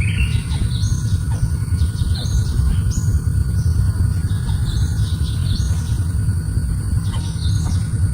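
Short, high bird chirps, about a dozen, irregularly spaced, over a steady low rumble.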